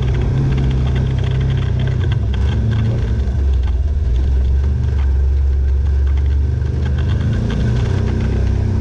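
Off-road vehicle engine running steadily and loud, a low even rumble with slight rises and falls in revs.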